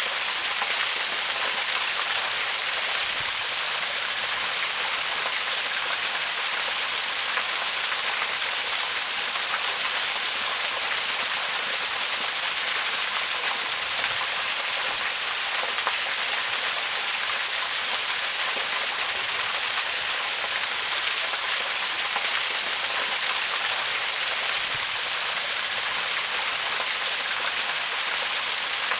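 Waterfall: water falling and splashing in a steady, bright, hiss-like rush with little deep rumble.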